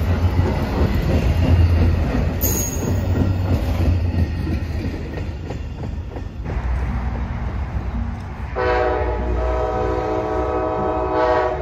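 Amtrak Auto Train autorack cars rolling past, a steady rumble with wheel clatter. About eight and a half seconds in, an Amtrak locomotive horn sounds one long chord of several notes for about three seconds, from the approaching Silver Meteor.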